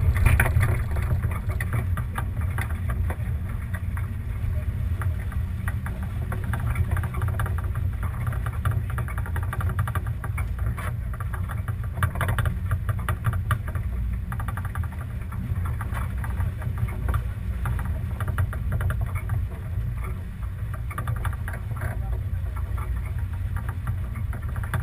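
Sailing boat under way, heard on a GoPro: a steady low rumble of wind on the camera's microphone, with water rushing and splashing along the hull.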